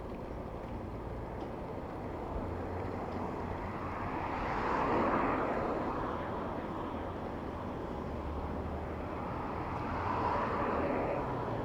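Road traffic heard while cycling: a steady rumble of engines and tyres that swells as vehicles pass about five seconds in and again near the end.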